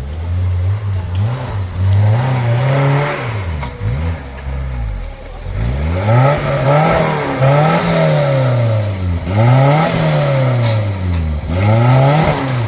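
A vehicle engine revving up and down over and over, its pitch rising and falling roughly every second and a half.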